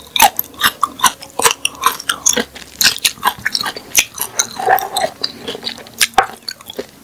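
Close-miked chewing of raw rabbit-ear cactus pad: a quick run of sharp crunches and mouth clicks, several a second.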